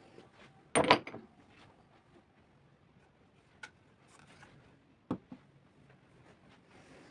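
Small household objects being handled and set down: a brief clatter about a second in, then a light tick and two knocks near the end.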